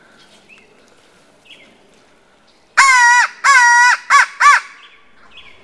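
A hand-blown crow call used as a turkey locator call: four loud caws, two long and then two short, starting about three seconds in. It is blown to make a distant gobbler shock-gobble and give away where he is.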